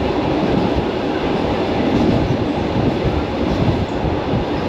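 Commuter electric train running along the line, heard from inside the carriage: a steady, loud rumble of the wheels on the rails.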